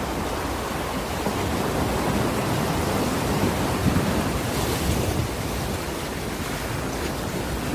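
Ocean waves washing on a shore: continuous surf swelling slightly in the middle, with a brief hiss of breaking water about four and a half seconds in.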